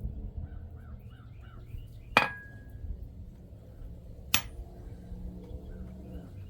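Two sharp hammer blows on metal at the anvil, about two seconds apart, the first leaving a brief ringing tone. Faint bird chirps and a low steady rumble sit underneath.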